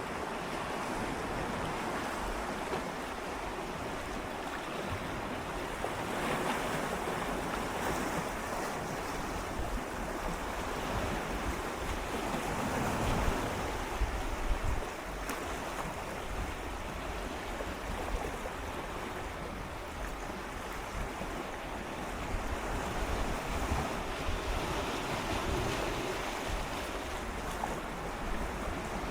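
Gentle sea waves swirling and lapping against shoreline rocks in a continuous wash that swells and recedes every few seconds, with some wind rumble on the microphone.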